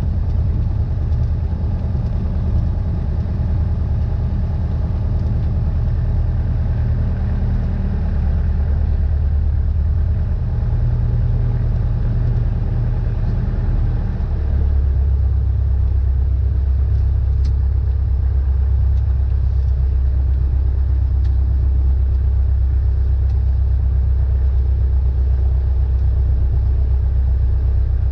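Cessna 172N's four-cylinder Lycoming piston engine and propeller droning steadily in flight; the engine note shifts slightly about ten seconds in and again about fourteen seconds in.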